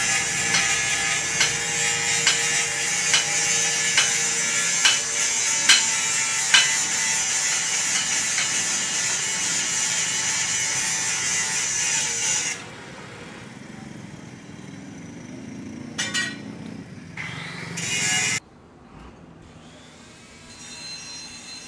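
A workshop tool working with a steady hiss and a regular tick a little more than once a second, stopping suddenly about twelve seconds in; softer, uneven workshop noise follows.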